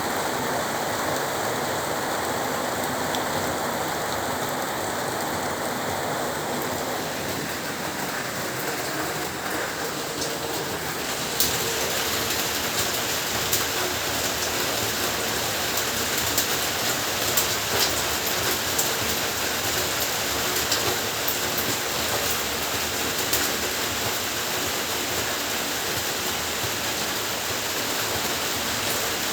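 Heavy rain falling steadily. About eleven seconds in the hiss turns brighter and is dotted with sharp taps of drops striking a nearby surface.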